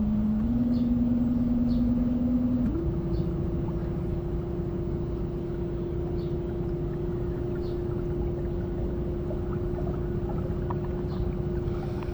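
A motor's steady hum over a low rumble, stepping up in pitch twice in the first few seconds, then holding steady until it cuts off suddenly at the end.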